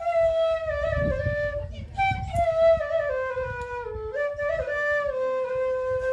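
Background music: a single flute playing a slow melody of held notes that glide and step downward.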